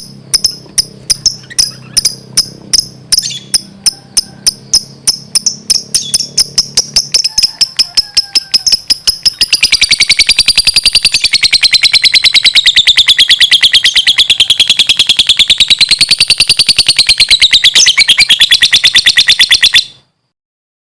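Lovebird chirping: a string of sharp, high chirps at about two to three a second that speeds up about halfway into a long, unbroken run of rapid chirps, then cuts off suddenly near the end.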